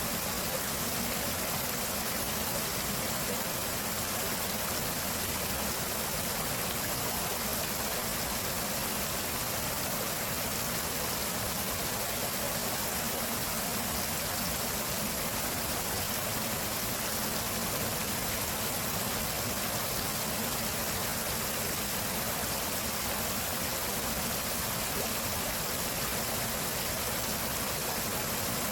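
A stream flowing steadily: an even, unbroken water hiss.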